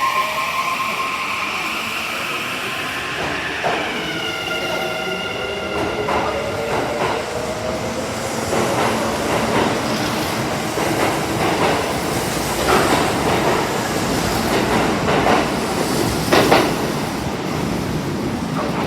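A Kintetsu 30000-series and 22600-series electric train pulling away. Its motors whine in several tones that rise in pitch from about four seconds in as it gathers speed, joined by wheels clacking over rail joints and a few sharp screeches near the end.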